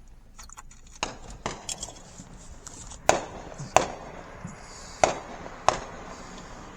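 Fireworks going off: a series of sharp bangs, two softer ones about a second in, then louder ones in pairs about two thirds of a second apart.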